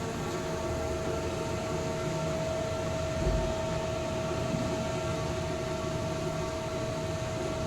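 Truck-loading belt conveyor running: a steady mechanical hum and rush with a constant whine, and a dull low thump a little over three seconds in.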